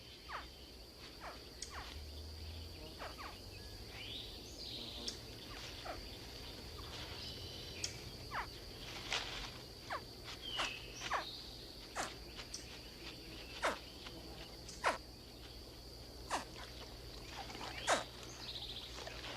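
Swamp ambience: a steady high-pitched insect drone, with short sharp chirps and clicks from wildlife every second or so and a few brief downward-sliding calls.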